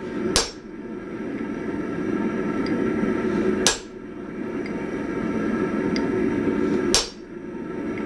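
Three heavy hammer blows about three seconds apart, striking a punch into a hot 1045 steel axe head to drive the eye through. A steady noise runs underneath.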